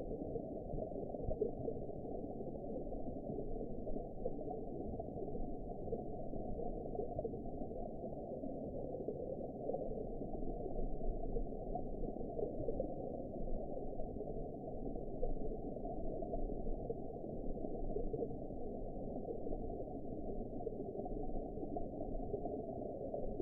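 Underwater ambience: a steady, muffled wash of water noise with no high end, evenly sustained.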